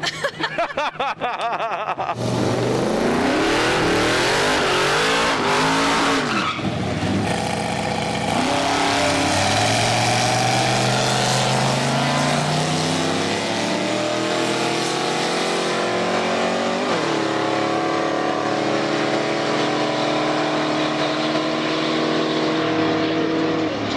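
Drag race car engine at full throttle, with tire squeal for a few seconds. Then it pulls hard through the gears, its pitch climbing steadily, with one gear change about two-thirds of the way through.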